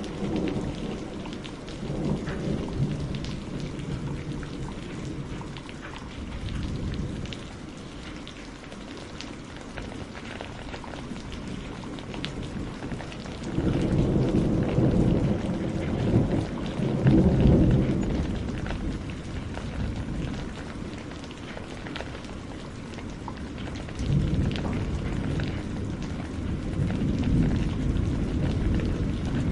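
Wood campfire crackling with many small sharp pops, over a low rumble that swells about 13 seconds in and again near the end.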